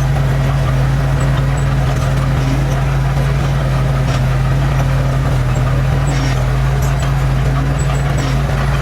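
Diesel engine of earthmoving machinery running at a steady speed, a constant low hum with a few faint light clanks.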